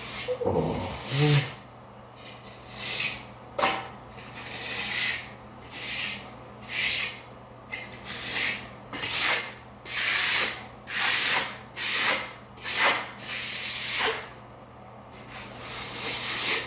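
Trowel scraping across dry-pack sand-cement shower pan mud in a steady run of short rasping strokes, roughly one a second, with a brief pause near the end.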